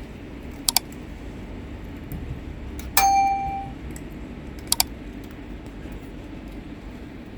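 Small hard clicks and a single ringing metallic clang: a quick double click, then one loud struck ring that dies away in under a second, then another double click, over a steady low background rumble.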